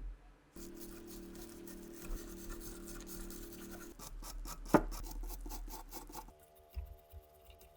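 Hand filing or rubbing on the metal parts of an old revolver, in a run of quick scraping strokes with one sharp click near the middle.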